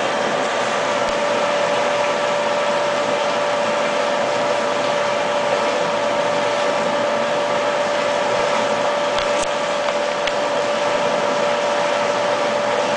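Water heating rig's pump running: a steady mechanical hum with a constant whine, unchanging, and a couple of faint ticks late on.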